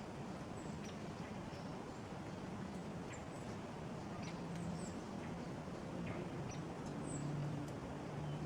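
Small songbirds giving scattered short, high, thin call notes and chips, with a few faint ticks, over a steady low hum.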